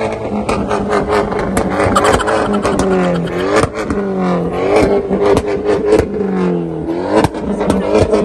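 Car engine running loudly with its pitch dipping and climbing several times, as if blipped and let fall, over a steady drone and many sharp clicks or pops.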